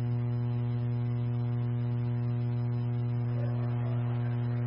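Steady low electrical hum with a stack of fainter higher tones above it, unchanging throughout: the background hum of a dispatch radio channel between transmissions.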